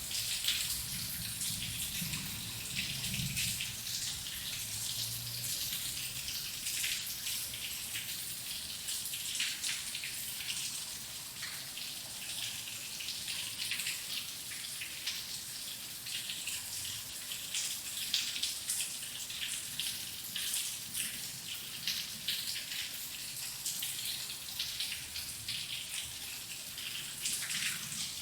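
Heavy rain falling steadily, a dense patter of individual drops over a continuous hiss. A low rumble of distant thunder dies away in the first few seconds.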